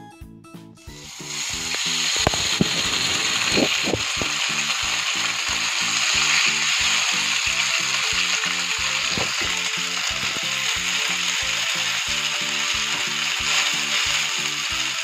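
Boiled noodles sizzling in hot olive oil in a frying pan: the sizzle starts about a second in as the noodles drop into the oil and then keeps up steadily as they are spread out to shallow-fry.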